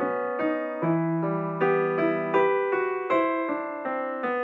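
Background piano music: a gentle melody of notes and chords struck at a steady, unhurried pace.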